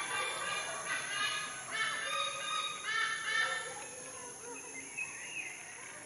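Bird calling: a quick series of loud, repeated calls with a rich, many-overtoned sound, fading out about three and a half seconds in, with a fainter call near the end.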